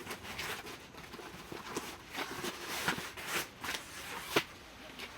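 Irregular rustling and clattering with several sharp knocks, the loudest about four seconds in.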